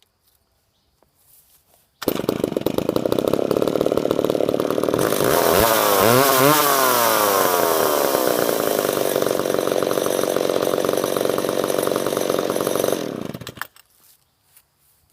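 Vintage McCulloch Pro Mac 700 two-stroke chainsaw: it starts abruptly about two seconds in, runs loud, and is revved up and down several times near the middle. It then cuts out a couple of seconds before the end.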